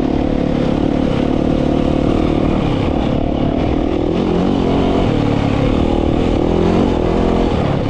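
Dirt bike engine running under load, its pitch rising and falling as the throttle opens and closes.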